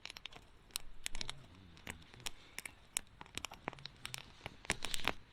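Wood campfire crackling, burning firewood giving irregular sharp pops and snaps.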